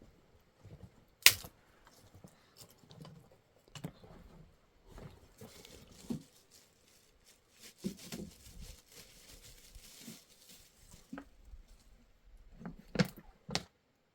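Things being handled: scattered knocks and clicks, with a stretch of rustling in the middle. One sharp click comes about a second in and two more near the end.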